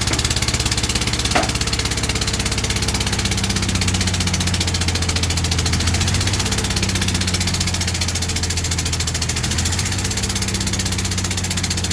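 1957 Chevy truck's six-cylinder engine idling steadily after many years of sitting, now firing on all six plugs. Its even firing pulse shifts slightly in speed a couple of times, with a single click about a second and a half in.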